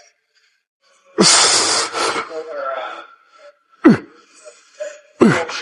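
A man's forceful breaths and grunts of effort while pressing heavy dumbbells. A long hissing exhale comes about a second in, then two short, sharp grunts about a second and a half apart near the end.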